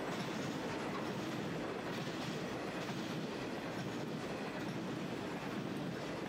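Freight train of loaded grain hopper wagons rolling along the rails, a steady rolling noise with no distinct clicks or tones.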